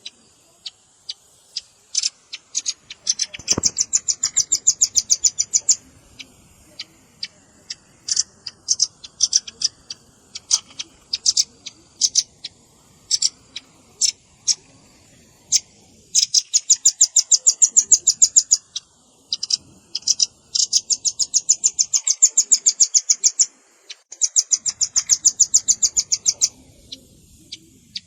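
Velvet-fronted nuthatch calling: rapid trills of sharp, high chips in runs of one to three seconds, broken by scattered single chips.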